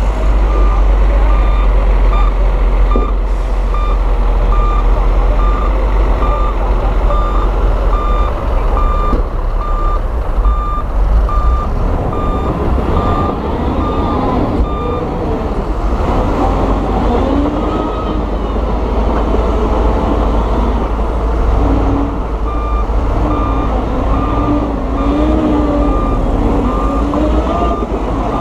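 Heavy diesel earthmoving machinery running with a loud low rumble while a reversing alarm beeps at about two beeps a second. The alarm stops about halfway through and starts again near the end, while the engine note wavers up and down.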